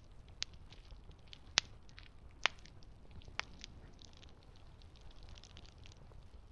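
Wood campfire burning, with a steady soft crackle and a handful of sharp pops from the burning logs, the loudest about a second and a half in.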